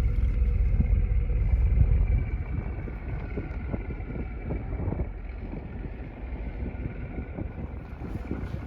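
Wind buffeting the microphone over a sailboat's inboard engine running under way, the low rumble loudest for about the first two seconds and then easing.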